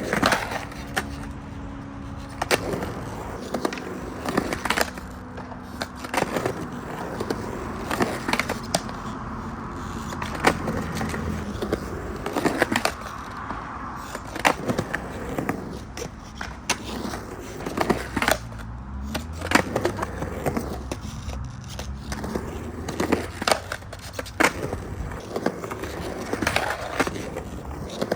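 Skateboard wheels rolling through a concrete bowl, with a string of sharp clacks as the metal trucks strike and grind the coping during 50-50 stalls and grinds. The rolling hum rises and falls in pitch as the board pumps up and down the transition.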